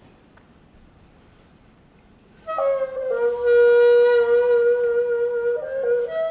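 Low room tone, then about two and a half seconds in a wind instrument enters, holding one long note and stepping up to a higher note near the end, as the opening of a gasa (Korean classical song) accompaniment.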